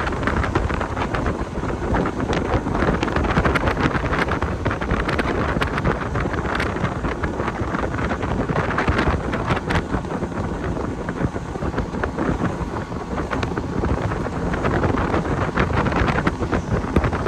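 Wind buffeting the microphone on a moving boat, a steady rushing noise over the hull and motor, with many short knocks and slaps scattered through it.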